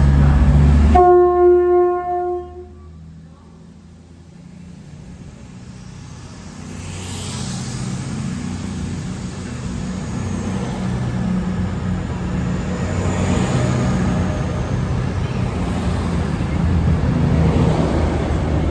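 A train horn sounds one steady note for about two seconds near the start. After a brief lull, the rumble of a train builds gradually as it approaches, with a faint high squeal.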